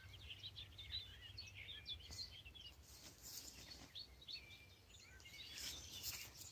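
Faint outdoor ambience of small birds chirping and twittering: many short chirps and quick little pitch flicks, overlapping throughout.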